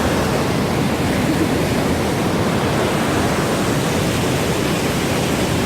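Steady rushing noise of fast-flowing water, even and unbroken.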